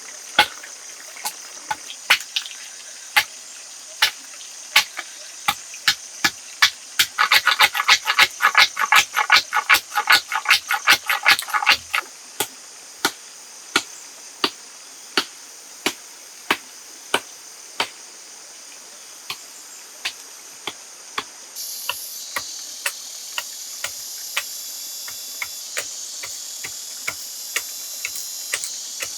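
Repeated sharp knocks or strikes, about one a second, with a quicker flurry of strikes partway through, over a steady high hiss that grows louder near the end.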